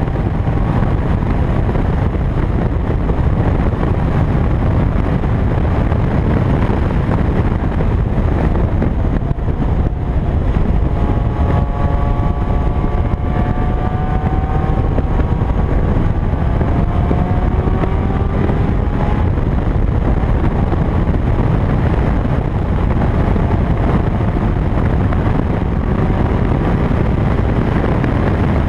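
2000 Toyota MR2 Spyder's stock 1ZZ 1.8-litre four-cylinder engine running hard at track speed, under heavy wind rush on an outside-mounted camera. The engine note climbs steadily for several seconds in the middle as the car accelerates.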